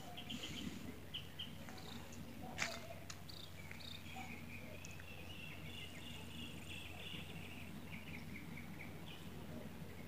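Faint outdoor ambience: quiet bird chirps and a trilling run of short notes over a low steady hum, with one short click about two and a half seconds in.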